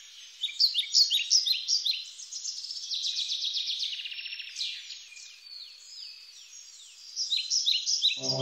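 Birds chirping: many short high notes and quick falling whistles in rapid, overlapping succession. Just at the end a low, steady droning chant sets in.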